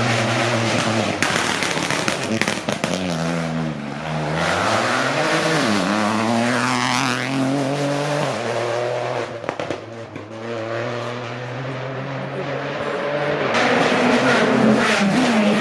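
Rally car engine at full effort on a special stage, its pitch rising and falling sharply through gear changes and lifts, with the car passing by about halfway. The engine noise dips for a few seconds, then loud revving returns near the end.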